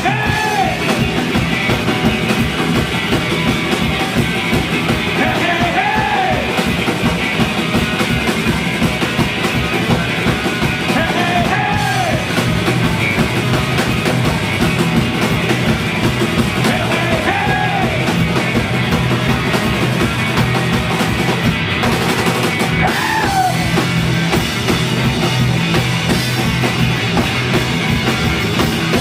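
Live punk-rock band playing loudly, with a drum kit keeping a fast, steady beat under the full band. A high note bends up and falls back about every five to six seconds.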